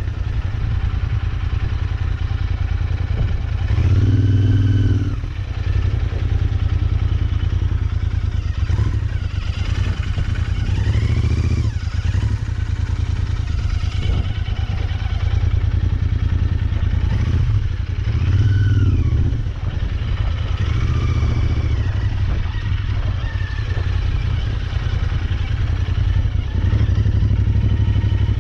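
Royal Enfield Interceptor 650's parallel-twin engine running continuously as the bike is ridden, its revs rising and falling about four times as the throttle is opened and rolled off.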